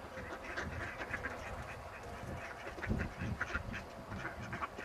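A crowd of ducks quacking in many short, overlapping calls as they are fed bread.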